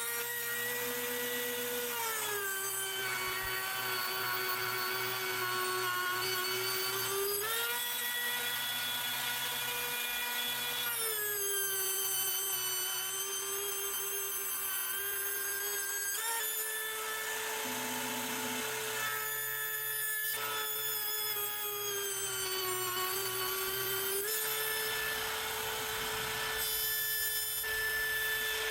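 CNC router spindle spinning a fly-cutting wheel through mahogany, a steady high whine that drops in pitch and climbs back several times.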